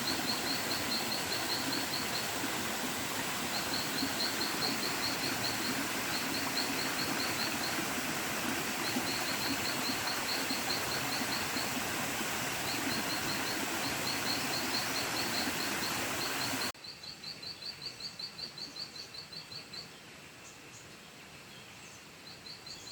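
Forest ambience: a high, rapid trilling call repeated in short bouts over a steady rushing hiss. The hiss drops away abruptly about seventeen seconds in, and the trills go on more faintly.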